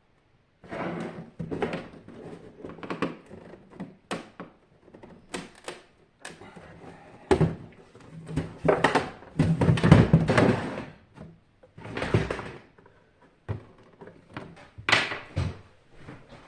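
Irregular clunks, knocks and scraping as parts of a hot-water heater are handled and taken apart, with a burst of heavier handling noise near the middle.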